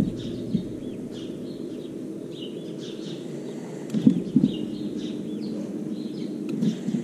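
Birds chirping in short calls every second or so, over a steady low hum, with a couple of knocks about four seconds in.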